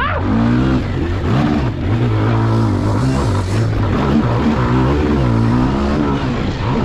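Pit bike engine revving up and falling off again and again as the rider works the throttle around the track, heard from on board the bike.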